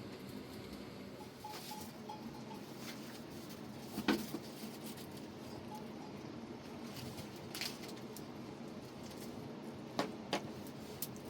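A few sharp knocks and clatters, spaced a few seconds apart, over a steady background hiss.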